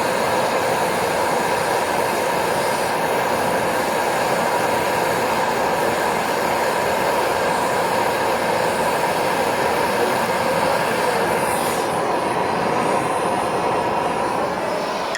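Handheld gas-cylinder torch flame running with a steady hiss while heating a copper-to-aluminium pipe joint for brazing.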